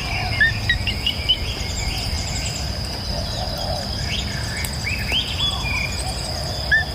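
Several birds chirping and singing in short, scattered phrases over a steady high-pitched insect drone, with a low rushing of river water underneath.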